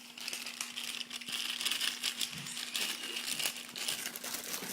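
A cake mix packet crinkling and rustling, with a run of small crackles, as the mix is emptied into a bowl. A faint steady hum runs underneath.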